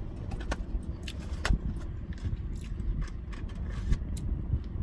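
A person chewing food with the mouth closed, with a few short sharp clicks, over a low steady rumble inside a car.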